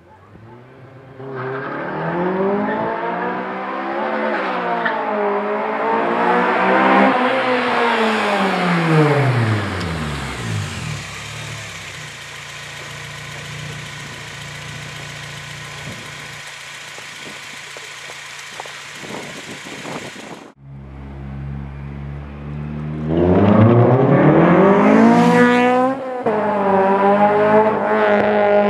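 Honda Civic Si sedan's 2.0-litre four-cylinder engine through an aftermarket Go Power 575 header and 3-inch exhaust, climbing in pitch under acceleration and then easing off, followed by a long steady run. The sound cuts off suddenly about twenty seconds in, then another hard pull rises sharply in pitch.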